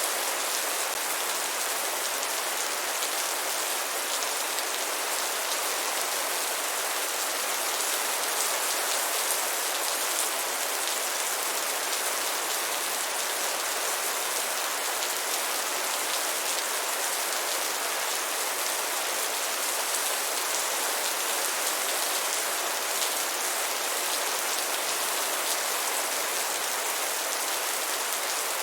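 Steady rain falling: a dense, even hiss of many drops, unchanging throughout, with no thunder.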